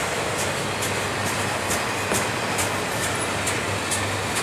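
Double-stack container well cars of a freight train rolling past: a steady noise of steel wheels on the rail, with a regular high clicking about twice a second as the wheels pass.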